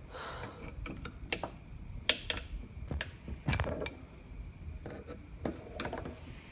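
Irregular clicks, taps and scrapes of hand tools and metal motor parts being handled, with a few sharper knocks about a second and a half, two, three and a half, and six seconds in.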